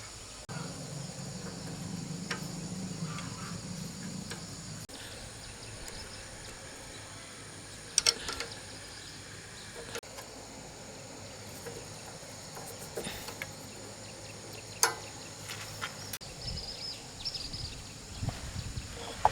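Steady high chirring of insects, with a low hum for the first few seconds and a few sharp knocks, the loudest about eight and fifteen seconds in.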